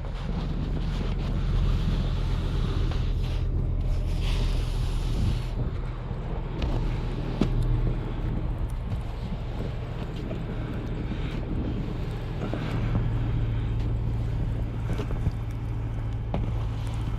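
Engine of a snow-plowing vehicle running steadily, with scattered short clicks and knocks.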